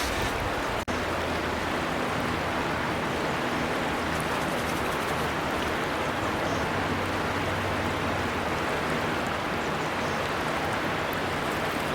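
Steady rushing of a gently flowing river, an even wash of water noise that cuts out for an instant about a second in.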